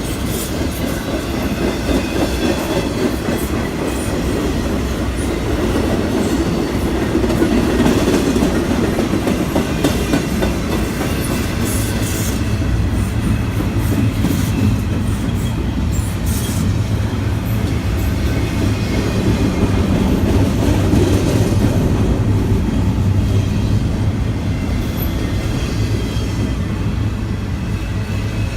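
Metra commuter train on the BNSF line running past at close range: a continuous rail rumble with scattered sharp wheel clicks around the middle, and a steady low hum that comes in about halfway through.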